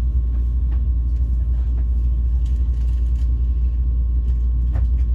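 Train running, a steady low rumble with no breaks.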